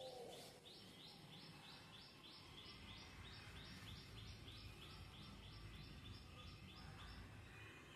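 Faint, rapid run of high bird chirps, about three to four a second, which stops near the end, over quiet room tone.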